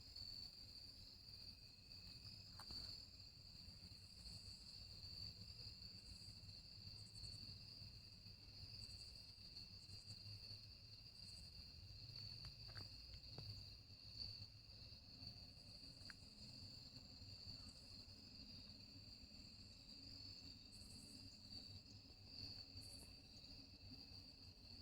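Faint, steady chorus of crickets: a continuous high-pitched trilling that never breaks, with a few faint clicks over it.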